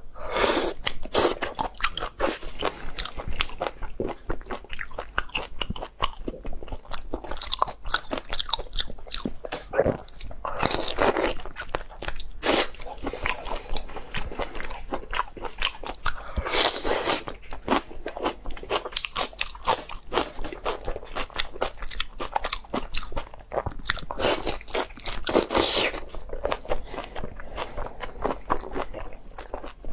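Close-miked eating: a person biting and chewing, with many sharp crunches and clicks and a few louder, longer mouth noises.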